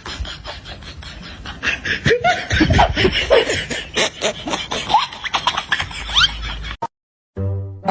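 People laughing and snickering, mixed with clicks and a few short rising squeaks; it all cuts off suddenly near the end.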